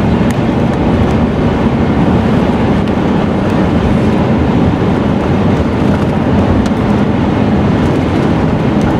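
Car on the move, a steady loud rush of road and engine noise heard from inside the cabin.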